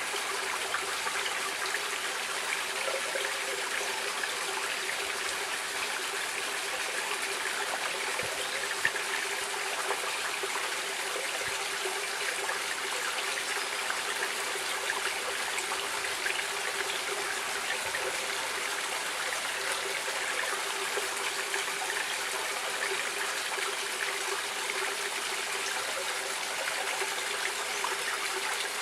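Stream water running and trickling steadily over stones, a constant splashing rush with fine bubbling detail.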